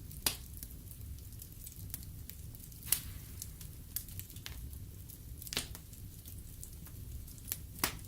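Wood fire burning in a fireplace: a steady low rumble of the flames with logs crackling and popping, several sharp pops standing out through the stretch.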